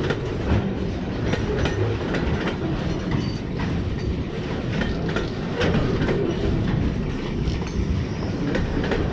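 Container wagons of a freight train rolling past at close range: a steady low rumble from the wheels, with repeated sharp clacks as the wheels cross the rail joints.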